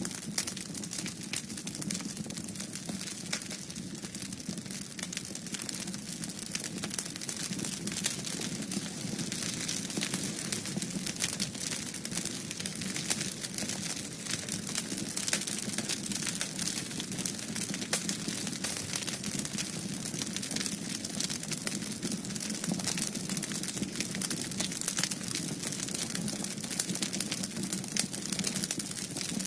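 Wood fire in a fireplace crackling steadily, with a constant stream of small irregular pops and snaps over a soft hiss and a low steady hum.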